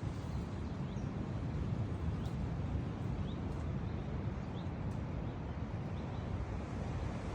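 Wind buffeting the microphone with a steady low rumble, while a small bird gives about five short rising chirps, roughly one every second or so.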